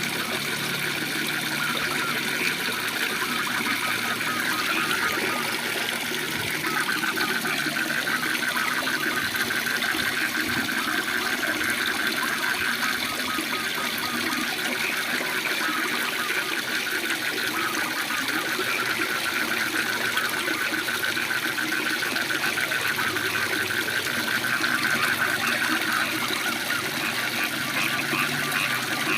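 Steady rush of a waterfall, with a chorus of frogs calling in fast, pulsing trills above it throughout.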